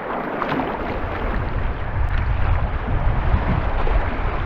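Rushing whitewater of a river rapid around a canoe, a steady roar, with wind buffeting the microphone.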